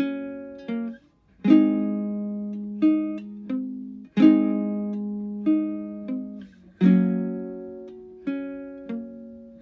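Slow guitar music: a plucked chord struck about every two and a half seconds, each ringing out and fading, with single notes picked in between.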